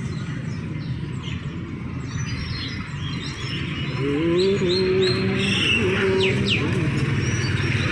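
Many caged songbirds chirping and twittering, short high calls overlapping one another, over a steady low rumble of traffic. About four seconds in a low droning tone rises and holds for a couple of seconds.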